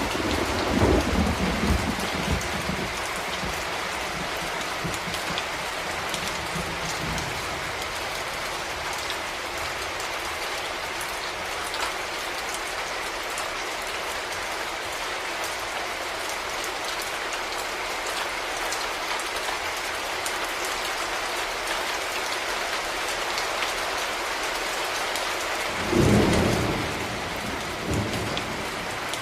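Steady heavy rain falling in a thunderstorm. A roll of thunder fades out over the first few seconds, and another thunderclap rumbles about three seconds before the end, with a smaller rumble just after it.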